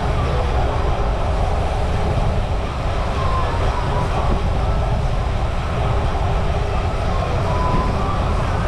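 Steady wind rumble on the microphone of a camera carried on a moving bicycle.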